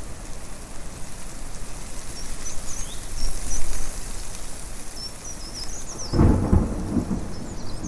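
Steady wind noise with birds chirping high and briefly throughout, and a loud low rumble of thunder breaking about six seconds in and rolling for about a second.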